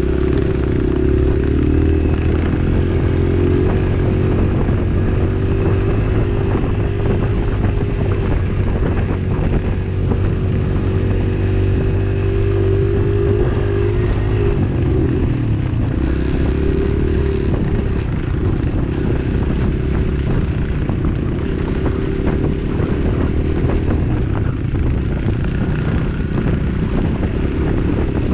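Dirt bike engine running steadily while riding, its note dropping and shifting about halfway through.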